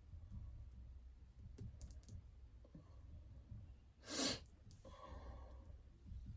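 Faint taps and dabs of a paintbrush on a canvas, with one short, loud rush of noise about four seconds in.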